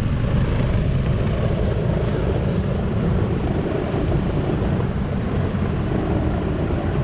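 Rheem Classic central air-conditioner condensing unit running: a steady, even hum and whoosh of the condenser fan and compressor, which is taken for a Copeland scroll.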